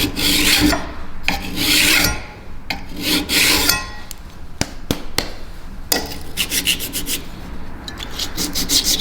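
A steel card scraper being sharpened by hand, metal rubbing on metal. First come three long rasping strokes, then a few sharp clicks, then quick short strokes several times a second near the end.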